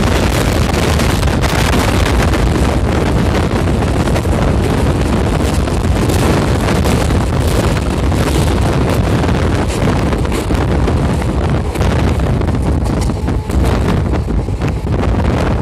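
Wind buffeting the microphone held out of a moving train's open door, over the steady low rumble of the coaches running on the track.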